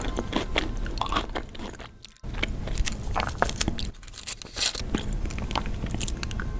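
Close-miked eating: crunchy bites and chewing, full of sharp crackles, with a brief drop almost to silence about two seconds in before the chewing picks up again.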